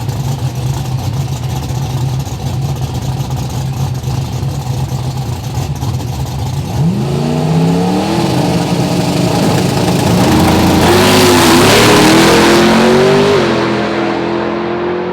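Drag-racing truck engines running steadily at first, then accelerating hard about seven seconds in, the engine pitch climbing in steps as the gears change and getting louder.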